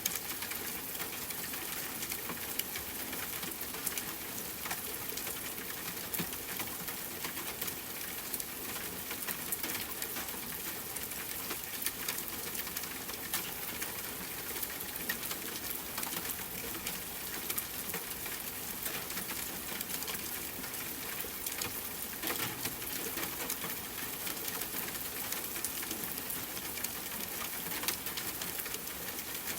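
Steady rain blended with a crackling fireplace fire: an even hiss with frequent small pops and crackles scattered throughout.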